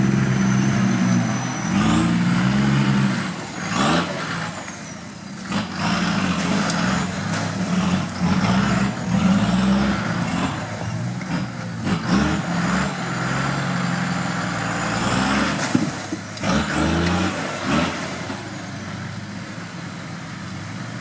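Off-road vehicle's engine revving up and down again and again as it works, with a thin high whine rising and falling alongside.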